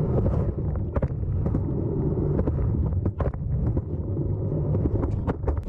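Skateboard wheels rolling over pavement: a steady low rumble with frequent short, sharp clicks.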